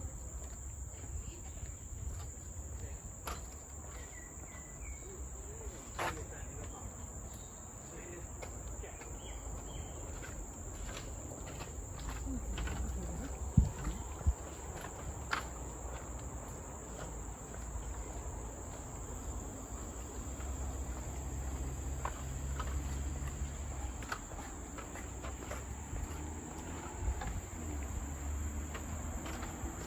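Steady high-pitched drone of tropical forest insects, unbroken throughout, over a low rumble, with scattered sharp clicks and knocks; the loudest click comes about halfway through.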